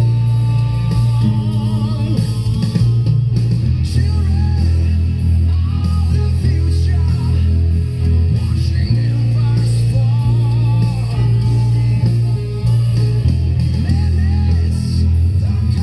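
Rock music led by a bass guitar holding long, heavy low notes that change every second or two, with a wavering higher melody line above them.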